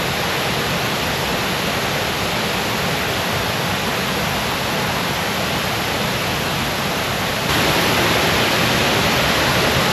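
Waterfall's falling water: a steady, loud rush of noise that gets louder about seven and a half seconds in.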